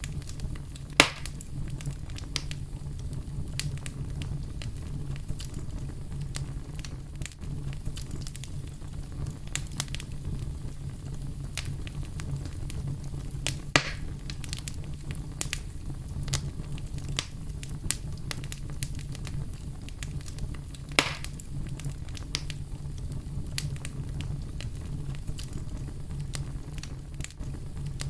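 Wood fire crackling in a fireplace, with many small pops and three louder snaps: about a second in, about halfway, and about three-quarters of the way through. A steady low rumble runs underneath.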